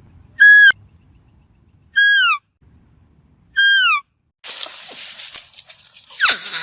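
Three short, high, whistle-like animal calls about a second and a half apart, each dropping in pitch at the end. From about two-thirds in, a loud steady hiss with a falling squeal near the end.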